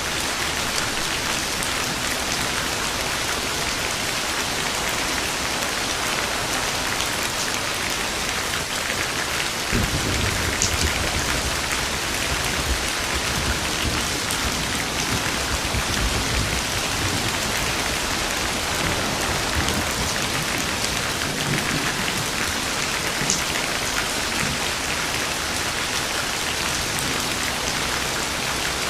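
Steady rain falling, with a low roll of thunder coming in about a third of the way through and rumbling unevenly for several seconds before fading back under the rain.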